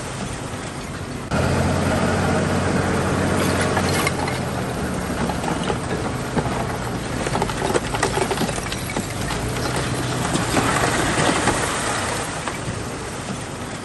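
Bulldozer's diesel engine working under load, with clanking and scraping from its tracks and the stone being pushed. It gets suddenly louder just over a second in.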